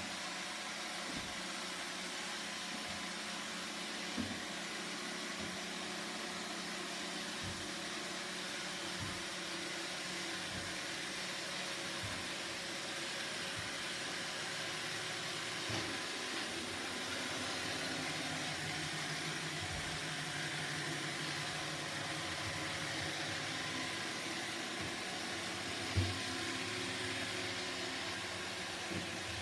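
Roomba robot vacuum running: a steady whirring hiss of its motor and brushes, with a few short knocks, the loudest near the end.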